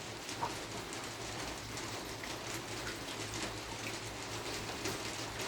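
Steady rain falling outside, an even hiss with faint scattered drips.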